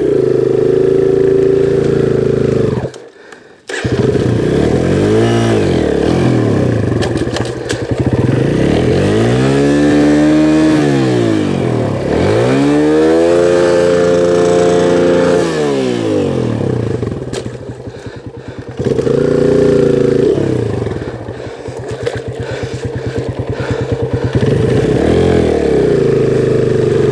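Kawasaki KLX140G dirt bike's small single-cylinder four-stroke engine revved up and down over and over, its pitch rising and falling in swells, as the bike is forced out through deep floodwater. The engine sound drops away briefly about three seconds in, and the engine lugs at low revs near the end.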